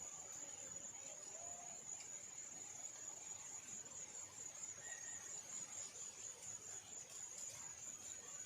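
Steady, high-pitched insect trill, cricket-like, running without a break and pulsing slightly. Two brief faint notes sound lower down, about one and a half and five seconds in.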